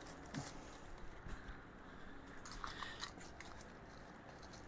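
Faint scattered clicks and light rustles of small items and packaging being handled.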